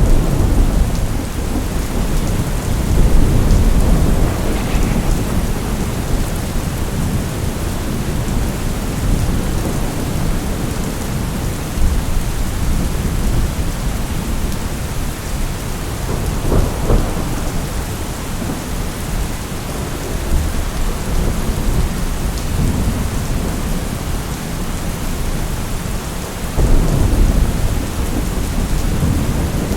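Steady rain falling on a surface, with low rolling thunder rumbling under it that swells about three seconds in and again near the end.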